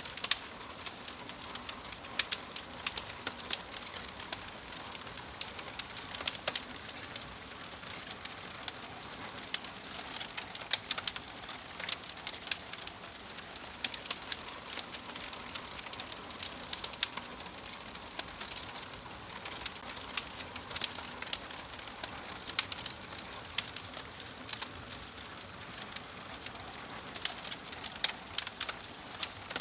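Wood fire in a fireplace crackling: a soft steady hiss with frequent sharp, irregular pops and snaps.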